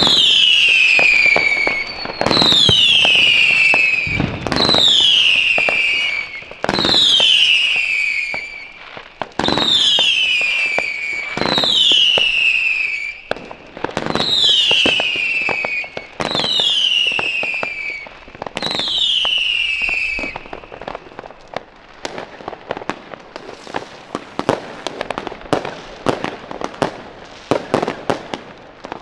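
Firework battery firing about nine whistling shots, roughly two seconds apart. Each is a bang followed by a high whistle that falls in pitch over a second or so. After about twenty seconds the whistles stop and a dense crackle of small pops and bursts carries on.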